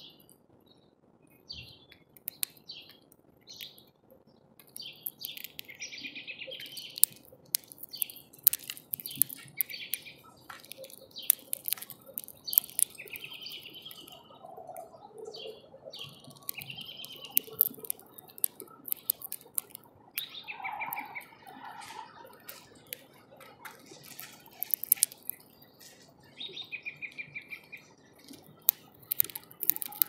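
Small songbirds chirping and twittering at a bird feeder in short bursts, with many sharp clicks and taps scattered throughout, some louder than the calls.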